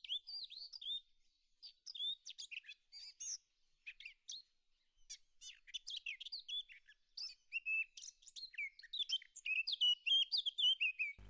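A songbird singing: a fast, varied run of high chirps and warbled notes that cuts off suddenly near the end.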